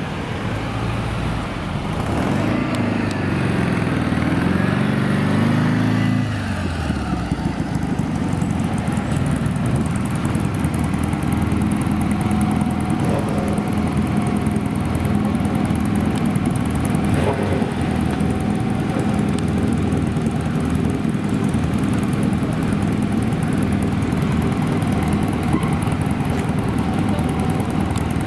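An old car's engine rises in pitch and sweeps past, falling away about six seconds in. After that, an engine runs steadily at a low, even pitch.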